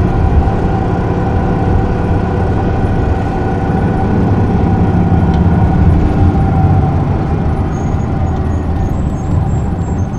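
Isuzu Erga (PJ-LV234L1) city bus's six-cylinder diesel engine running steadily, heard from inside the cabin. A few faint high tones come in near the end.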